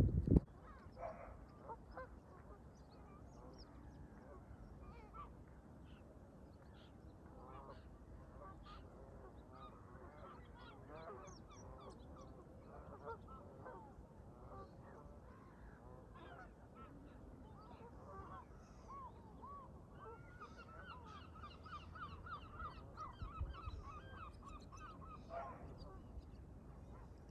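Canada geese honking, many short calls at first and then a fast run of repeated honks near the end, over a low rumble of wind on the microphone. A louder gust hits the microphone at the very start.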